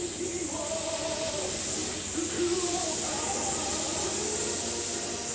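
Paint spray gun hissing steadily as it sprays base-coat paint, with a fainter voice or music from a radio underneath.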